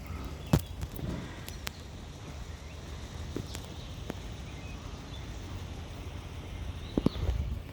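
Outdoor background with a steady low rumble and a few scattered sharp knocks, the loudest about half a second in and a cluster near the end.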